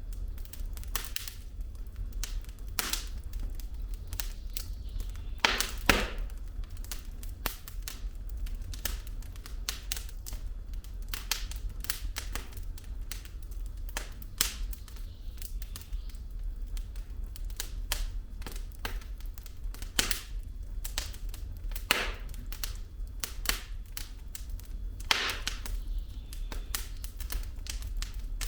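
Firewood logs burning in a fireplace, crackling with irregular snaps and pops, a few louder pops among them, over a low steady rumble.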